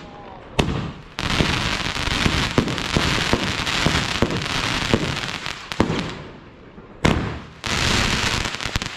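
Consumer fireworks battery firing: a sharp bang about half a second in, then a dense run of crackling and banging shots for several seconds. After a short lull, two more loud bangs about seven seconds in are followed by more crackling.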